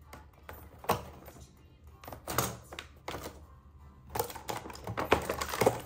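Background music with hands handling small plastic toys and packaging: a few separate taps and clicks, becoming denser clicking and rustling in the last two seconds.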